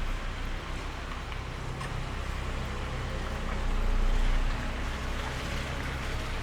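Steady rain hiss with a deep low rumble underneath that swells for about a second near the middle and then falls back.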